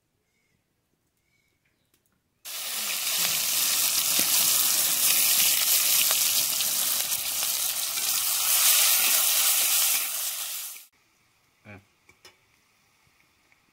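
Sliced onions sizzling in hot oil in an aluminium wok: a loud, even sizzle that starts abruptly about two seconds in and cuts off suddenly near the end. It is followed by a couple of faint taps of a spatula against the wok.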